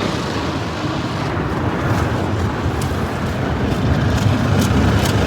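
Automatic car wash running, heard from inside the vehicle: a steady rushing hiss of spray with a low rumble that grows from about two seconds in, and scattered light ticks.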